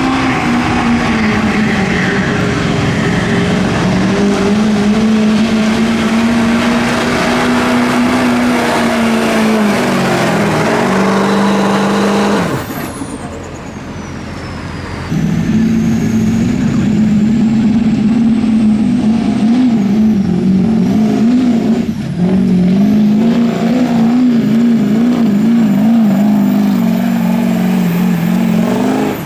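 A pulling truck's engine held at full throttle under heavy load as it drags the weight-transfer sled, its revs sagging and falling off about halfway through. A few seconds later the engine is back at full throttle, its revs wavering up and down, and it stops suddenly at the end.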